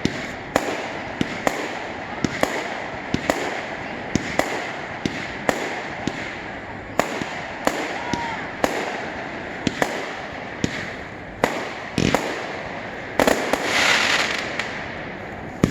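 Fireworks going off in rapid succession: sharp bangs about two a second over a continuous crackling haze, with a louder cluster of bursts near the end.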